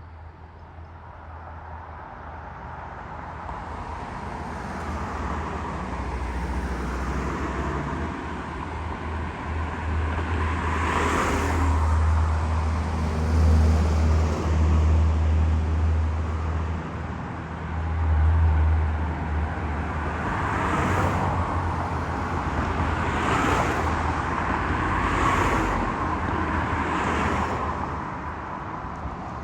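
Road traffic passing by: a heavy vehicle's low engine rumble grows louder over the first dozen seconds. Several more vehicles whoosh past one after another in the second half.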